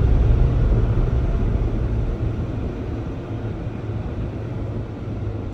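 Automatic car wash machinery, likely the air dryers, heard as a steady low rumble from inside the car, slowly fading over the second half.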